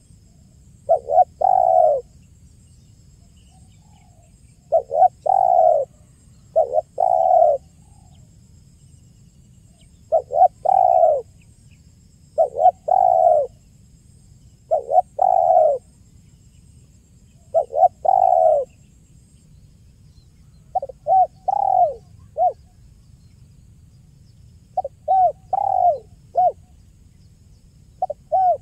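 Spotted dove (tekukur) cooing over and over, each phrase of a few deep notes coming every two seconds or so. It is the 'kuk 1' call style that fanciers use to lure and train birds. Toward the end some phrases break into short, clipped notes.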